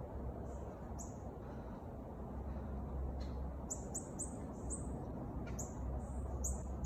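A bird giving short, high chirps that slur downward: one about a second in, a quick run of four near the middle, and a few more near the end. A low steady rumble runs underneath.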